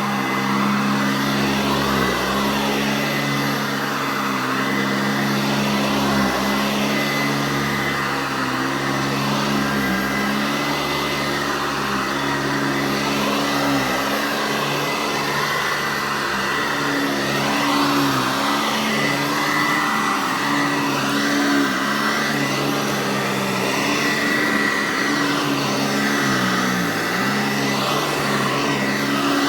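Eureka Heavy Duty Commercial C2094 upright vacuum running with a loud, screaming whine from its 7-amp motor and large fan. The pitch dips briefly about every two seconds.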